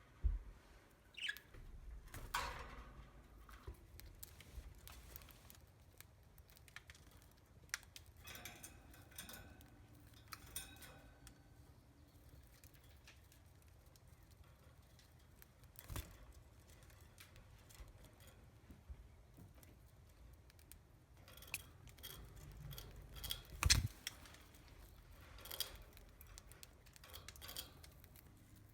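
Budgies eating millet spray: faint scattered clicks and crackles of beaks pecking and husking the seeds, with a few short chirps and a sharper knock about three-quarters of the way through.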